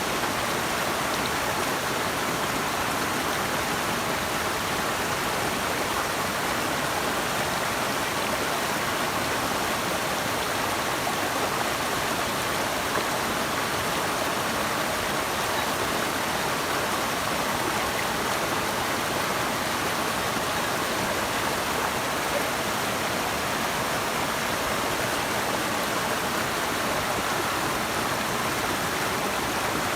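Running water, a steady, even rush with no breaks or distinct splashes.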